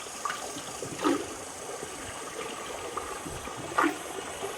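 Water lapping and trickling around a small boat, with a couple of light splashes about a second in and near the end.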